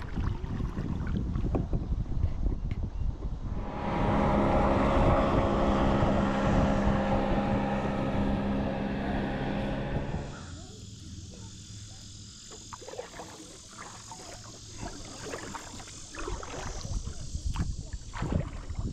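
Sounds of a kayak on a river. Low wind rumble on the microphone, then a loud steady drone of several tones for about six seconds, then a quieter stretch of short knocks and splashes.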